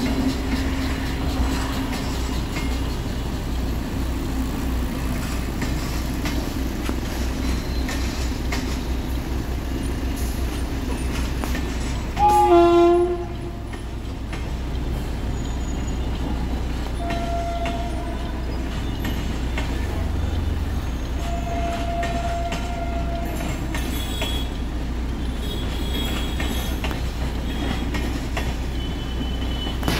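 Passenger coaches of an electric-hauled train rolling steadily past, wheels clattering on the track. A short, loud train horn blast sounds about twelve seconds in.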